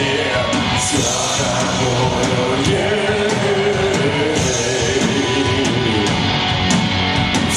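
A punk rock band playing live and loud: electric guitars and drums with cymbal hits, and a wavering melodic line over them.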